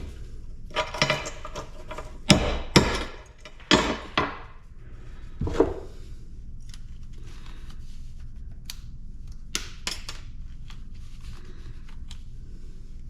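Metal scrap parts and hand tools clanking and knocking while an air-conditioner part is being taken apart: a run of sharp knocks and clanks over the first six seconds, then a few lighter clicks.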